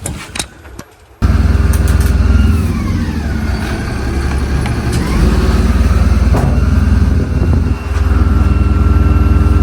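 Refuse truck's diesel engine and hydraulic bin-lifting body running loudly while the body is cycled to test a repaired sensor fault. It starts abruptly about a second in, and a whine dips in pitch and rises again in the middle.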